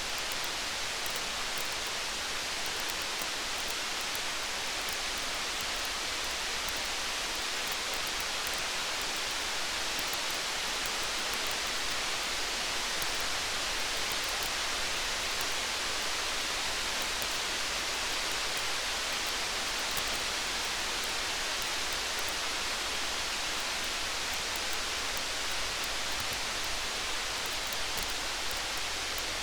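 Steady rain, an even hiss that does not let up, with faint sharp ticks scattered through it.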